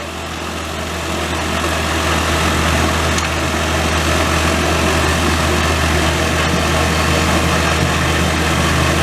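Compact Kubota tractor with a snowblower attachment running steadily, its engine growing louder over the first few seconds and then holding level.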